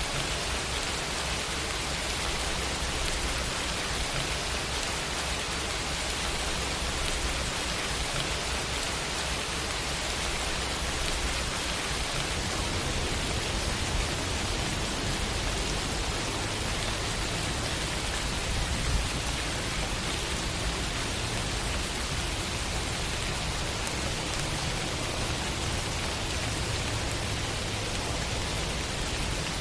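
Steady rain falling as an even hiss, with a low rumble underneath that shifts about twelve seconds in.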